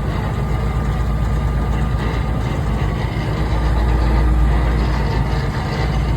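Heavy truck engine running steadily with a deep low rumble, as during unloading.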